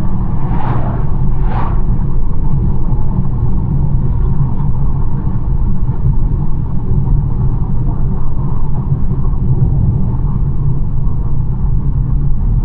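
BMW 1 Series driving at a steady speed: a constant low road and tyre rumble with its engine underneath. Two brief whooshes come within the first two seconds.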